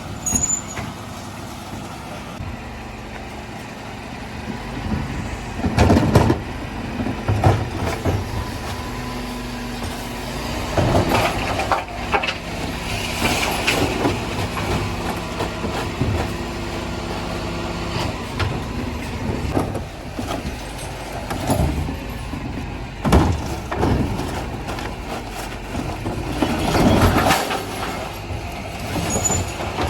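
Dennis Elite 6 refuse truck's engine running steadily, with repeated loud bangs and clatter as bins are lifted and recycling is tipped into the body.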